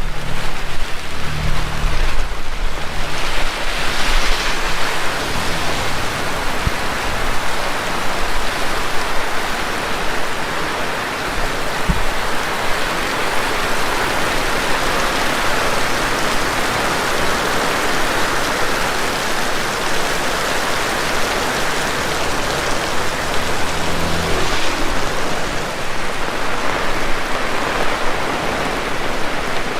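Heavy rain pouring steadily, a dense even hiss of falling water. Low rumbles come and go in the first few seconds and again about three-quarters of the way through.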